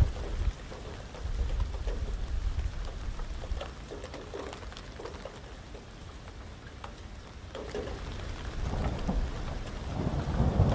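Heavy rain pattering on surfaces with scattered individual drops, under a low rumble of thunder that is strongest in the first few seconds, dies down in the middle and swells again near the end.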